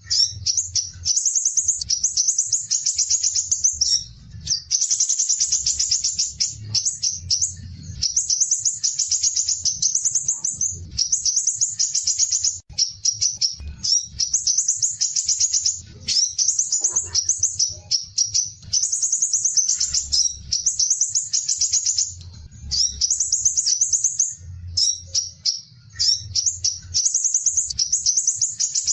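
Small songbird singing fast, high trilled phrases, each a second or two long, one after another with short breaks: a 'masteran' tutor recording of the rapid 'besetan' song style used to train caged songbirds. A faint low hum runs underneath.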